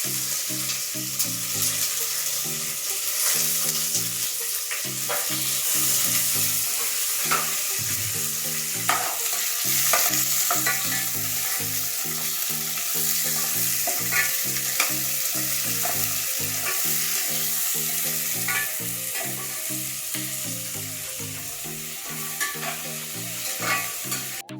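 Thinly sliced onions sizzling steadily in hot oil in a pan, with short sharp clicks and scrapes here and there as a spoon stirs them.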